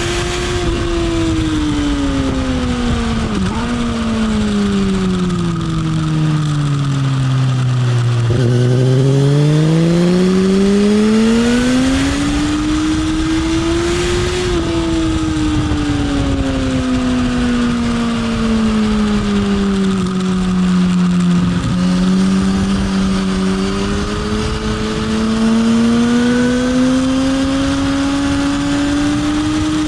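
Sport motorcycle engine heard onboard at track speed. The engine note falls for about eight seconds as the bike slows into a corner, rises again, falls once more, then climbs slowly as the rider drives out, with a couple of brief sharp dips in pitch. Wind rushes over the microphone throughout.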